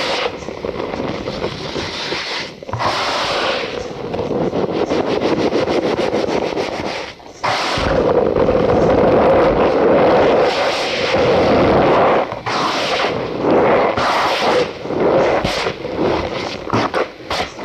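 Cornstarch powder squeezed and crushed by hand, giving a dense crunchy squeak with fast crackling, in several long squeezes with short breaks between.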